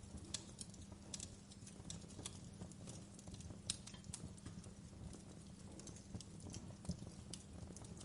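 Wood fire crackling: irregular sharp pops and snaps over a low steady rumble of the burning wood, with one louder pop a little before the middle.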